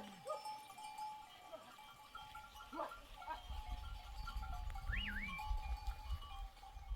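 Sheep and goats bleating, a few separate short calls, with a low rumble rising from about halfway through.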